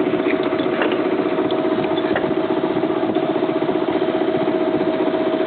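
A sailboat's motor running steadily at low speed, a constant drone with a fast flutter.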